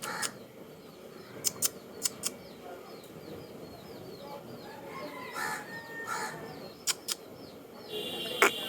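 Bird calls: faint little chirps repeating, two harsher calls about five and six seconds in, and several sharp clicks scattered through.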